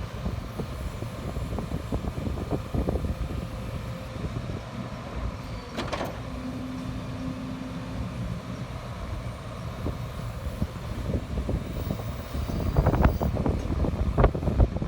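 Liebherr R 934 tracked excavator running with a steady low engine rumble. There is a sharp click about six seconds in, then a short steady tone, and louder knocks near the end.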